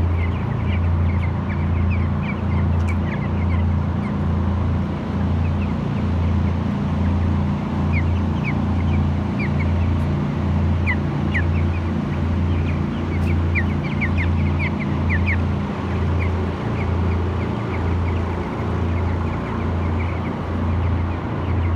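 A flock of 22-day-old broiler chickens peeping with many short high chirps. Under them runs a steady low machine hum that pulses about once a second.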